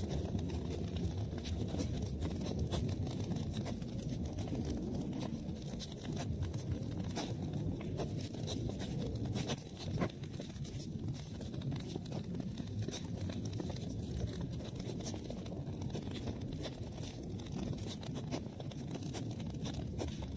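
Wood fire burning in a fireplace: a steady low rumble of flames with many small crackles and pops, one slightly louder pop about ten seconds in.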